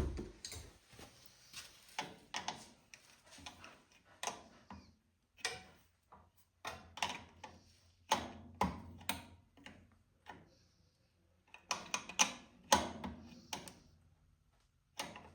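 Hand tools working bolts on the tractor's engine: irregular metal clicks and clanks in small clusters with short pauses between them.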